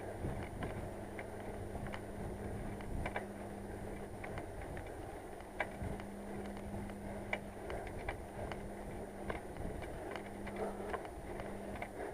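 Bicycle being ridden along a road, with sharp irregular clicks from the rear wheel hub over a steady rolling hum. The clicking is the sign of a failing rear hub whose grease has turned to black sludge.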